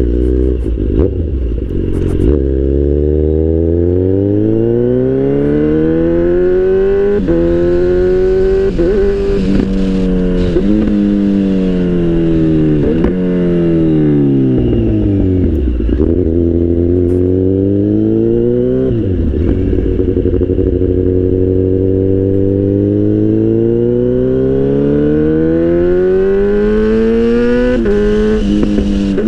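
Kawasaki Z800 inline-four with an aftermarket IXRace exhaust, accelerating hard through the gears: the engine note climbs and drops sharply at each upshift several times. Around the middle it winds down as the bike slows, then pulls up again in one long climb before another shift near the end.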